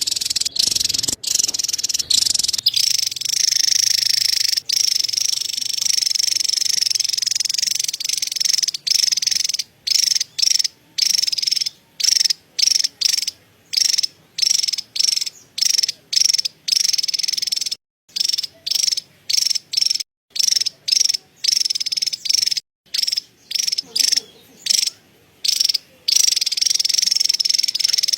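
Javan tesia giving its high, dry chattering call: one long unbroken rattle for the first several seconds, then short chatter phrases repeated about twice a second.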